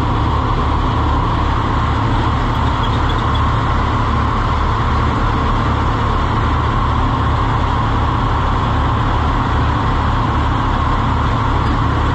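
Tractor engine running steadily at idle, an even low pulsing beat that holds the same throughout.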